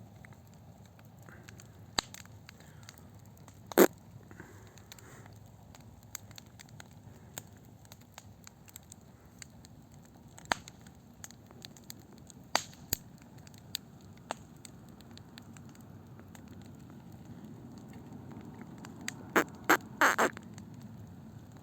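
Wood campfire burning with a low steady rustle and scattered sharp crackles and pops: a loud pop about four seconds in and a quick cluster of louder cracks near the end.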